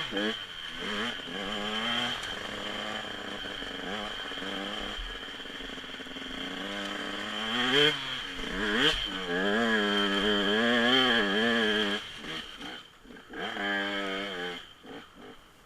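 Dirt bike engine running and being revved, its pitch rising and falling with the throttle, then dropping away near the end.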